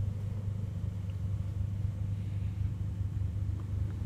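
Steady low rumble of the Mercedes-Benz CLA45 AMG's turbocharged four-cylinder idling, heard from inside the cabin.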